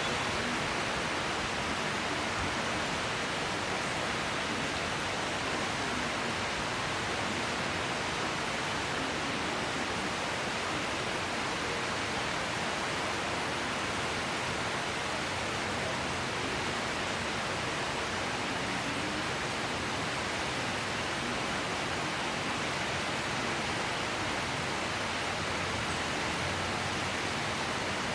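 Heavy tropical rain falling in a steady downpour, an even hiss that holds at one level throughout.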